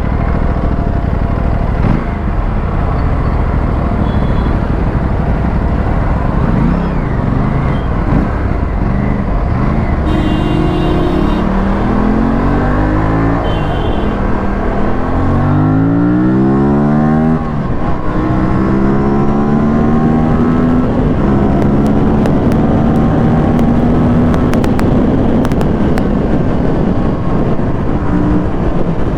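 Aprilia RS457 parallel-twin motorcycle engine accelerating through the gears while riding, with wind rumble on the microphone. About halfway through the revs climb steeply, drop suddenly at an upshift, then climb steadily again.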